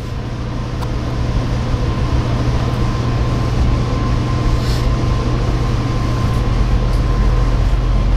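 Running noise inside a moving Amtrak passenger coach: a steady rumble of wheels on rail with a low hum and a faint steady whine, slowly growing louder. Near the end a deeper rumble builds as a Norfolk Southern locomotive comes alongside on the next track.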